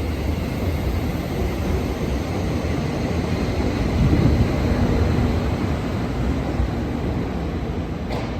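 Train running: a steady low rumble that swells about four seconds in, then slowly eases.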